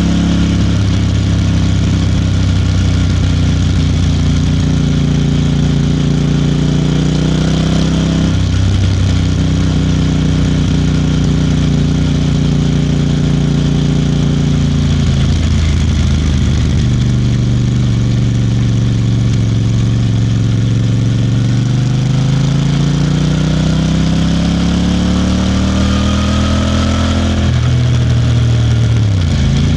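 Royal Enfield Bear 650's 648 cc parallel-twin engine pulling steadily under way. Its note dips briefly a few times, climbs slowly and evenly over about ten seconds in the second half, then drops near the end.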